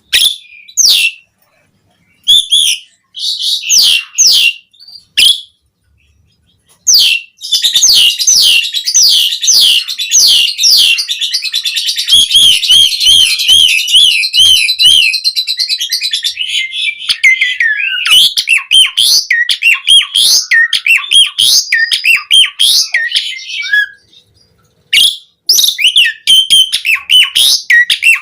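Asian pied starling (jalak suren) singing in full, varied song. A few short bursts of calls with pauses between them are followed by a long, fast run of repeated whistled and chattering notes, broken by one short pause near the end.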